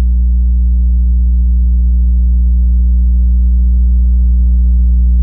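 Loud, steady low hum with a few evenly spaced higher overtones, unchanging throughout.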